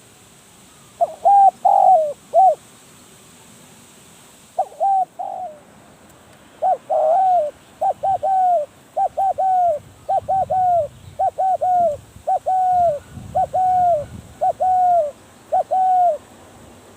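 Spotted dove cooing: a few short coos, then a long run of repeated coos at about two a second that stops shortly before the end.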